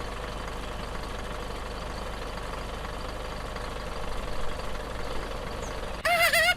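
Steady engine-like idling hum with a low rumble, unchanging for about six seconds; near the end a high, wavering voice-like sound cuts in.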